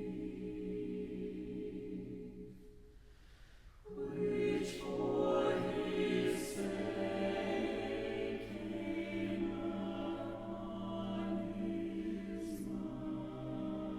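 Choir singing slow, sustained chords. The chord dies away about two seconds in, and the voices come back in together a little before the four-second mark, with the hiss of sung 's' consonants now and then.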